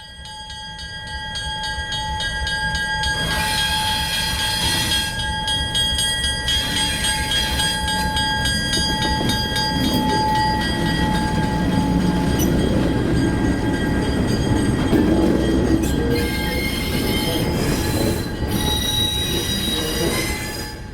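Train rolling along the track, a steady low rumble with high squealing from the steel wheels on the rails and several bursts of hiss. It fades in over the first couple of seconds and fades out near the end.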